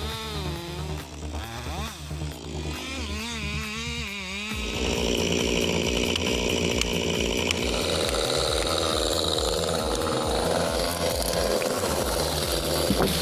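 Chainsaw running, its pitch wavering up and down for the first few seconds, then a louder, steadier saw sound from about four and a half seconds in, over background music. A sharp click near the end.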